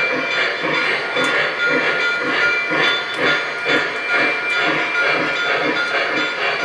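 Model steam locomotive's sound system chuffing in a steady rhythm of about two to three chuffs a second as the train runs, with a steady high-pitched tone underneath.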